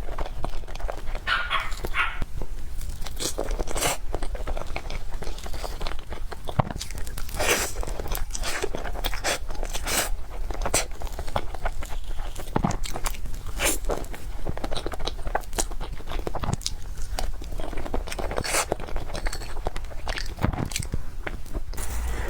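Close-miked eating sounds: chewing and biting with frequent irregular sharp wet mouth clicks and smacks.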